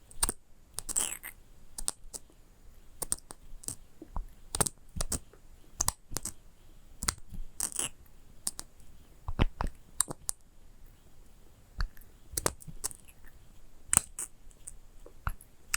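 Objects tapped and handled close to the microphone for ASMR: a run of sharp clicks and taps at uneven intervals, sometimes several in quick succession.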